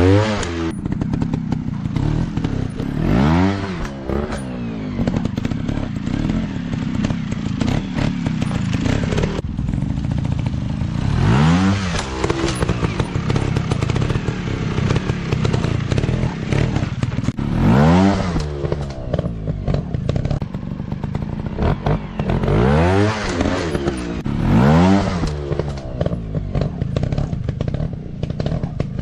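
Dirt bike engines running off-road, revved up and back down in repeated bursts, about six times.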